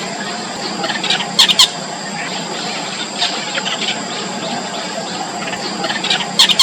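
Yellow bittern chicks in the nest giving rapid, high-pitched squealing begging calls, loudest in two short bursts about a second and a half in and again near the end.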